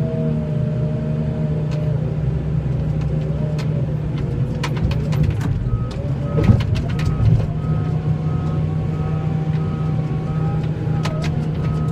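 Vehicle engine running steadily. From about halfway through, a high electronic beep repeats about twice a second, with scattered sharp clicks and knocks over the engine.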